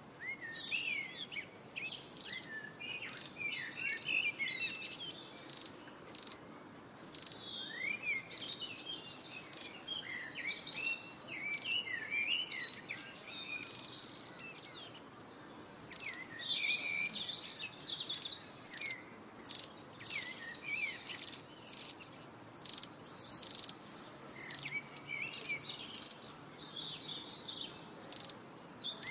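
Birdsong: several small birds chirping and singing at once, with quick rising and falling whistled notes and a fast trill about ten seconds in.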